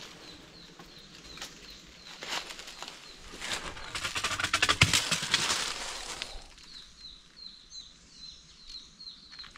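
A bird chirping a quick, steady series of short high notes, about four a second, over rustling and crackling like movement through dry leaves and brush. The rustling is loudest about four to six seconds in.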